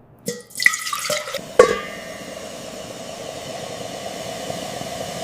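Four sharp metallic clanks in the first two seconds, each leaving a short ringing tone, the last the loudest, followed by a steady rushing noise like running water or a process hiss.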